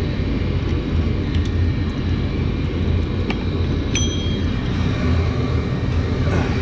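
Steady, loud low mechanical drone, with a few light metallic clicks, one of which rings briefly.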